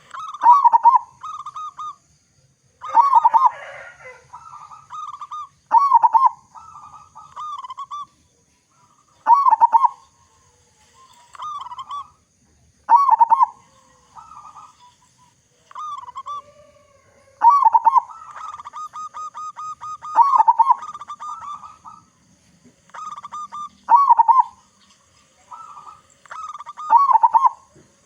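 Zebra dove cooing: a phrase every two to three seconds, each opening with a loud note and running on into a quick string of short coos.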